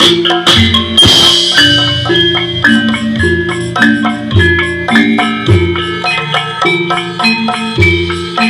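Javanese gamelan music: metallophones play a melody of struck, ringing notes in an even pulse over low hand-drum strokes, with a crash about a second in.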